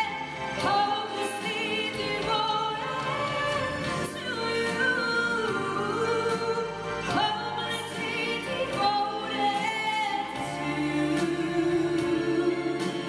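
Choir singing live, the voices wavering in pitch, over regular percussion hits.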